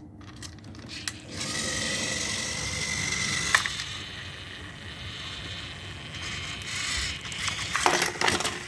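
Small electric motors of battery-powered toy train engines whirring as two engines run against each other in a strength contest. The whirring starts about a second in, with a thin whine at first and a click partway through, and gives way to a few sharp handling clatters near the end.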